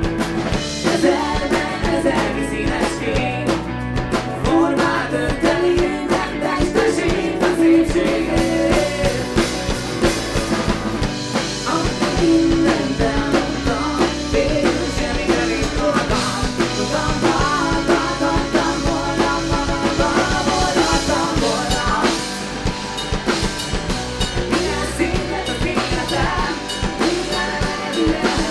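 Live rock band playing a song, with singing over electric guitar, bass and a drum kit.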